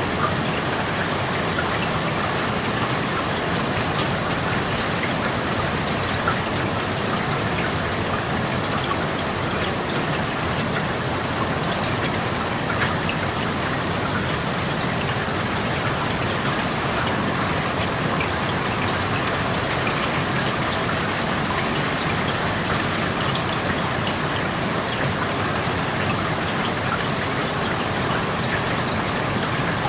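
Steady rain falling, with a constant hiss of rain and scattered individual drops ticking on surfaces. It is heard through an open window.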